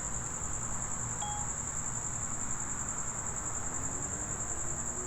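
Crickets trilling in a steady, high-pitched chorus, with a low background rumble and one brief faint beep about a second in.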